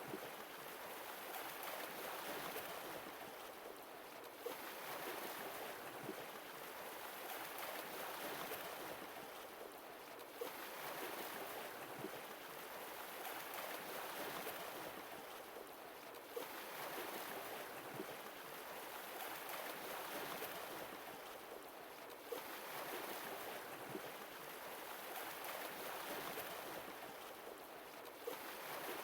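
Sea waves breaking on the shore about every six seconds, each starting with a brief sharp crash and a hiss of surf that swells and then fades away.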